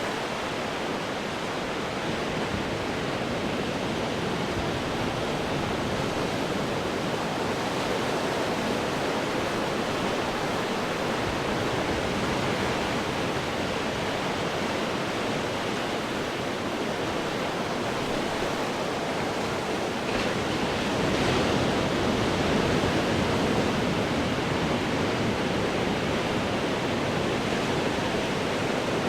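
Ocean surf breaking on rocks: a continuous rushing wash of water that swells a little louder about two-thirds of the way through.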